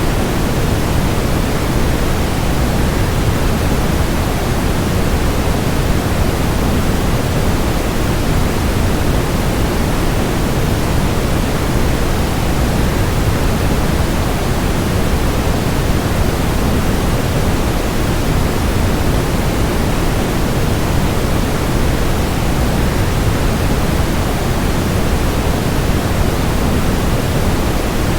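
Steady, unchanging rushing noise of a waterfall blended with white noise, heaviest in the low end.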